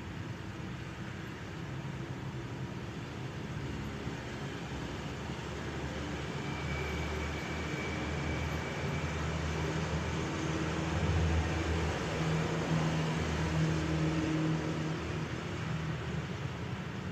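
City street ambience in light rain: a steady hiss of rain and distant traffic, with a vehicle's low rumble swelling and passing about halfway through.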